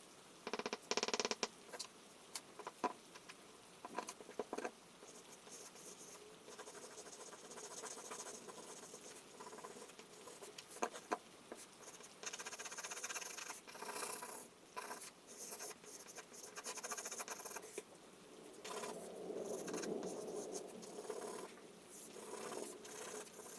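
Charcoal scratching and rubbing on paper in quick, irregular strokes, with a cluster of sharp taps about a second in.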